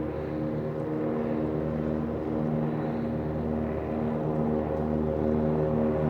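Aircraft engine running steadily at the airport: a low hum made of several steady tones over a rushing noise, slowly growing louder.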